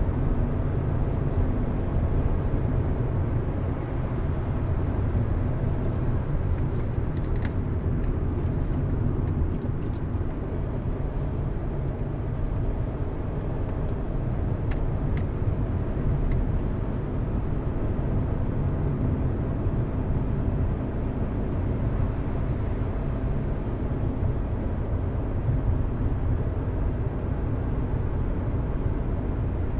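Car driving along at steady speed: a continuous low rumble of engine and tyre noise, with a few faint ticks about seven to ten seconds in and again around fifteen seconds in.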